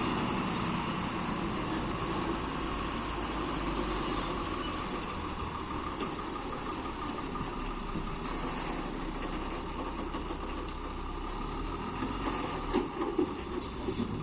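Heavy diesel vehicle engine running steadily, with a few short knocks near the end.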